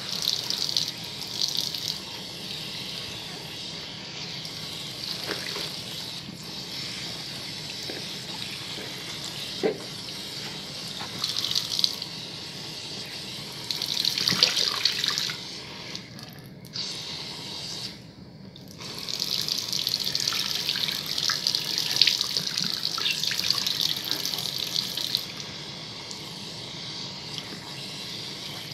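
Tap water running into a sink over hands lathering and rinsing a bar of soap, swelling and easing as the hands move. The splashing hiss dips out briefly twice past the halfway point.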